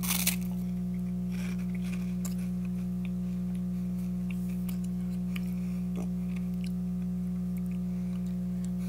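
A person chewing a puffed, airy Cheetos Colmillos snack, with a few faint scattered crunches, over a steady low hum.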